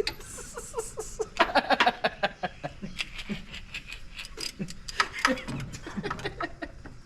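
People laughing and chuckling in short bursts, with scattered clicks.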